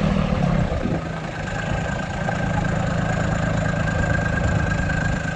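A vehicle engine running steadily at low revs, with a thin steady whine that comes in about a second and a half in.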